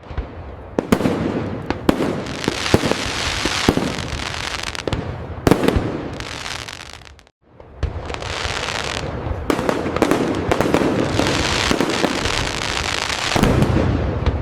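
Fireworks going off: a dense, loud crackle packed with many sharp pops. It cuts out briefly about halfway, then starts again.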